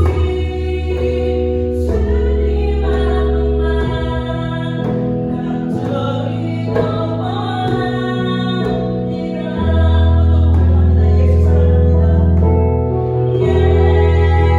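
Christian worship song: a singer over sustained chordal accompaniment with a deep held bass, the chords changing every few seconds.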